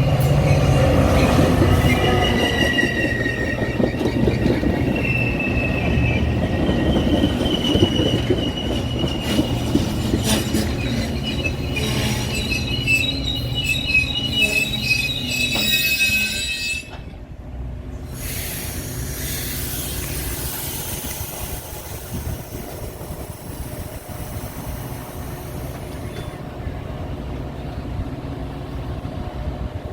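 Commuter train wheels squealing on the rails, several high tones over the running rumble and clatter. About 17 seconds in the squeal stops abruptly, and a lower, steady rumble and rushing noise of the moving train follow.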